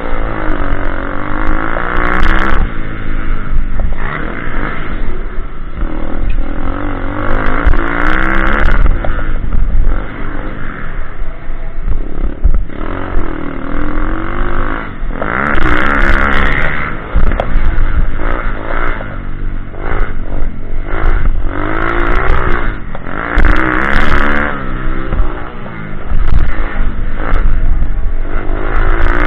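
Pitbike's small single-cylinder engine revving up and falling back again and again, loud and close, with rattling and clattering over the top.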